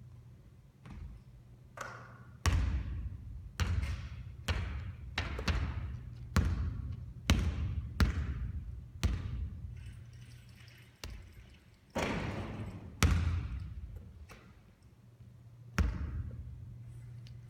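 Basketball bouncing on a hard court: about twenty irregular thuds spaced half a second to a second and a half apart, each echoing briefly, with the loudest near the start and around the middle.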